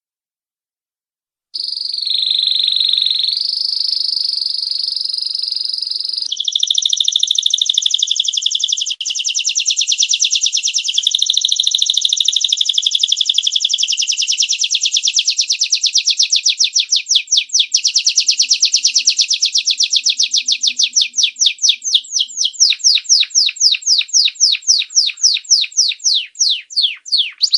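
Domestic canary singing, starting about a second and a half in: one long unbroken high song, first a held, wavering trill, then a very fast rolling trill whose notes slowly spread out into separate down-sweeping notes, several a second, near the end.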